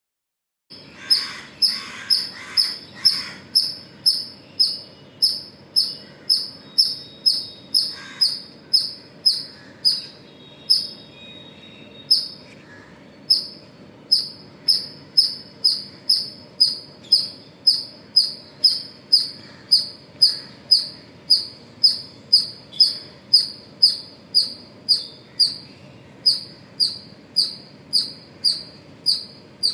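Indian palm squirrel calling: a sharp, high chirp repeated about twice a second, with a brief break about halfway through.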